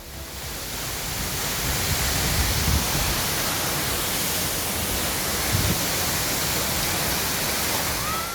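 Waterfall's falling water making a steady, even rushing noise, swelling low a couple of times, with a short rising whistle-like tone near the end.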